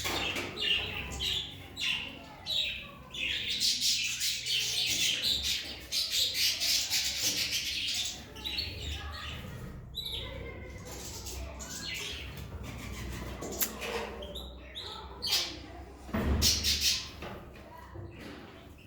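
Caged finches chirping and twittering, with a dense run of high twittering song a few seconds in and short bursts of calls around it.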